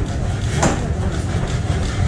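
Factory machinery running with a steady low hum, and one sharp metal strike about two-thirds of a second in, in a shop forging steel nuts.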